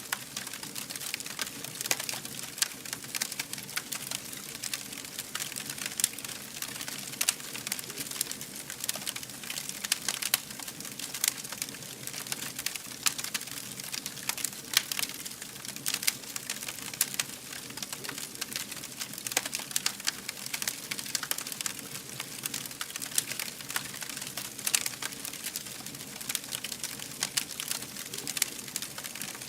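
Campfire crackling: many irregular sharp snaps and pops over a steady hiss.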